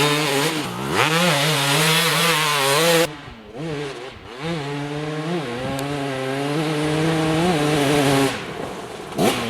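2004 Kawasaki KX250's single-cylinder two-stroke engine revving high at wide-open throttle, its pitch wavering. The throttle shuts about three seconds in, then it pulls hard again for about four seconds before backing off near the end with a few short blips.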